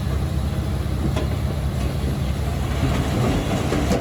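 Heavy earthmoving machinery's diesel engine running steadily under a low rumble, with a few sharp metallic clanks, the clatter of steel parts such as tracks or a blade.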